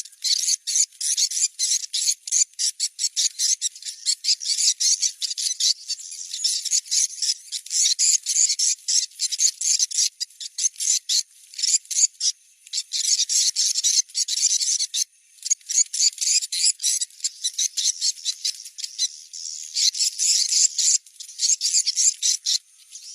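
Recorded swiftlet calls played as a lure to check a site for a swiftlet house: dense, rapid high chirping and twittering with brief pauses.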